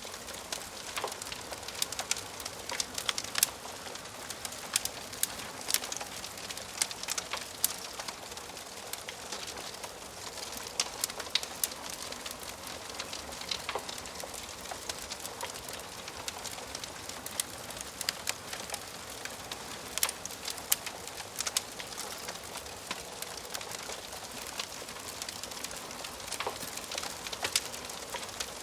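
Wood fire crackling in a fireplace: a steady hiss with frequent sharp, irregular pops and snaps from the burning logs.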